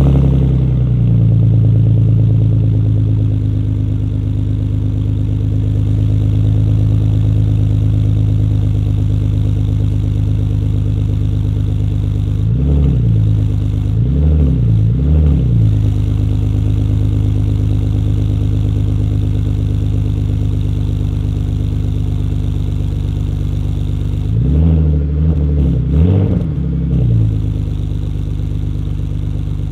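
BMW E46 320Ci's 2.2-litre inline-six, through a Magnaflow exhaust, idling just after a cold start: it comes in loud at a raised idle that eases down to a steady rumble. Twice the throttle is blipped, with about three quick revs each time, around the middle and near the end.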